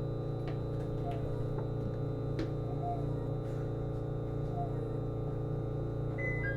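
Cabin sound of a JR East Series HB-E210 hybrid railcar: a steady drone from its Komatsu DMF15HZB-G diesel engine and electrical equipment, holding one pitch throughout, with a thin high whine above it. A few faint clicks sound, and a short two-note electronic tone begins near the end.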